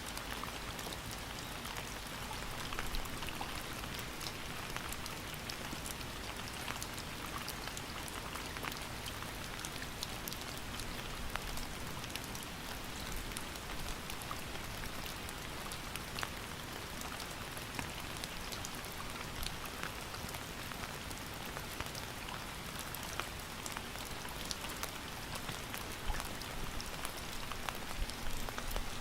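Steady rain falling, a constant hiss of rainfall with many individual drops ticking on a surface throughout.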